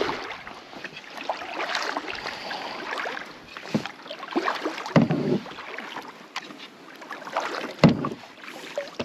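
Kayak paddle strokes splashing in lake water, irregular and continuous, with a couple of heavier strokes near the middle and near the end.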